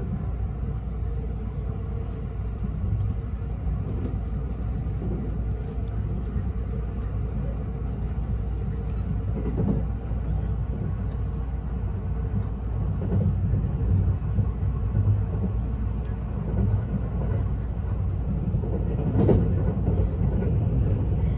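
Steady running rumble inside the cabin of a limited express electric train travelling on rails, growing a little louder about halfway through.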